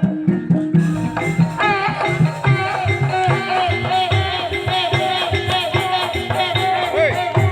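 Live ebeg accompaniment music with a steady drum beat, rattling percussion and a repeated pitched melody.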